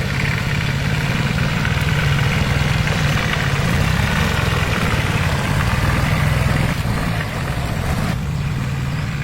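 A motor vehicle's engine running steadily at a low, even speed, a little quieter over the last second or so.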